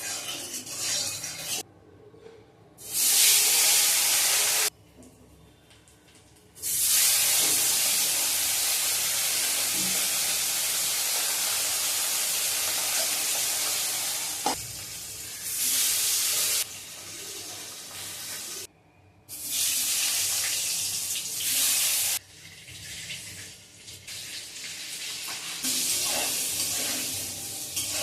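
Water running from a tap, in several stretches that start and stop abruptly, with quieter splashing and handling sounds between them.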